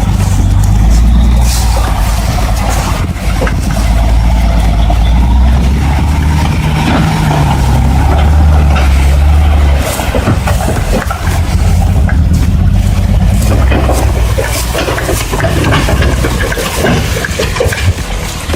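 Heavy truck engine running loud and low, steady for about the first ten seconds, then more uneven, with scattered knocks and clatter.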